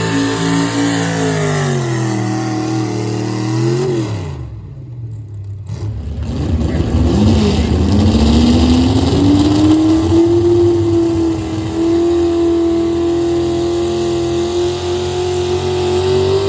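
Pulling vehicle's engine at high revs, its pitch falling over the first few seconds as it winds down. After a short break about four and a half seconds in, an engine revs up and holds steady at high revs under load.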